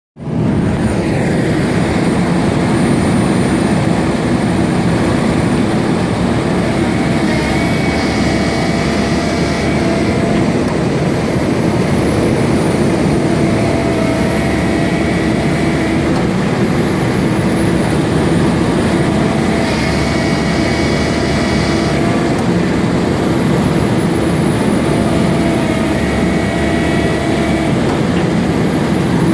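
A truck's engine running loud and steady, with a faint high whine that rises and falls about every six seconds.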